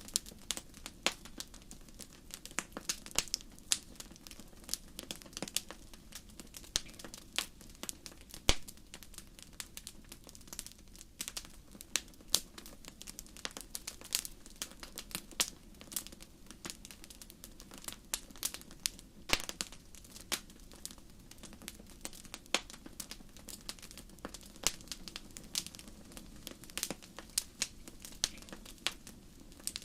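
Crackling fire: irregular sharp pops and snaps, several a second, over a soft steady low rumble.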